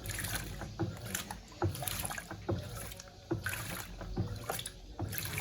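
Washing machine agitating a wet load, with a steady motor hum and water sloshing and knocking in an even rhythm a little faster than once a second.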